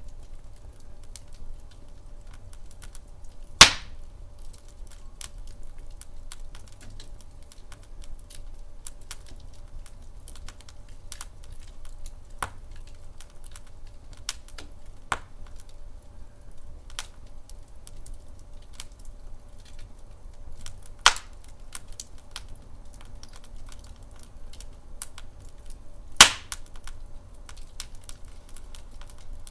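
Wood fire burning in a fireplace: a low steady rumble with scattered small crackles and three loud sharp pops, about 3.5 s, 21 s and 26 s in.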